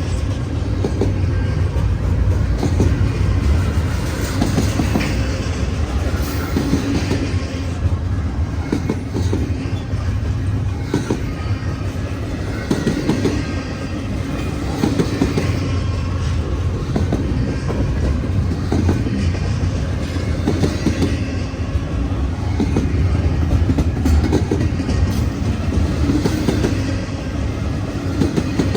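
Train rolling past, a steady low rumble with wheels clicking over rail joints.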